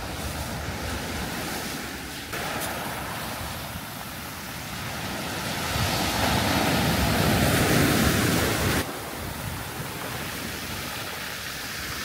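Surf washing onto a sandy beach, a steady rushing that swells louder about six seconds in and drops back suddenly near nine seconds.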